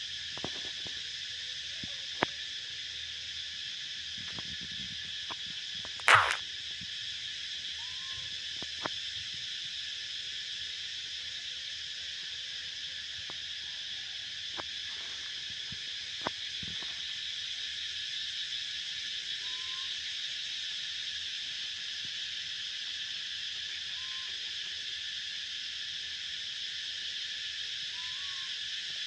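A steady high-pitched jungle chorus of calling creatures, with a few short faint chirps. Several sharp clicks and knocks sound over it, the loudest about six seconds in.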